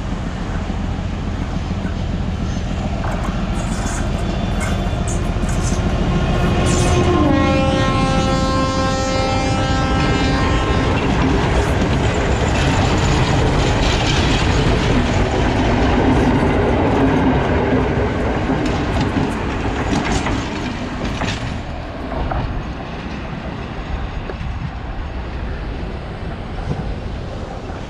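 Passenger train passing close by with a heavy rumble and wheels clacking over the rail joints. A locomotive horn sounds for about three and a half seconds some seven seconds in. The rumble of the passing coaches is loudest in the middle and eases off over the last several seconds.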